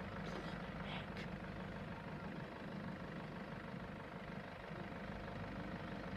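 Low steady hum of a vehicle engine idling, with a couple of faint brief sounds about a second in.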